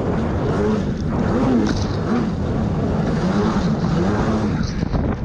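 Jet ski engine running, its pitch rising and falling over and over as the throttle changes.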